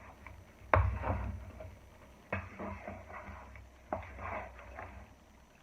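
Cubed raw chicken being stirred in stir-fry sauce in a bowl: wet, sticky mixing sounds with three sharp knocks about a second and a half apart, fading toward the end.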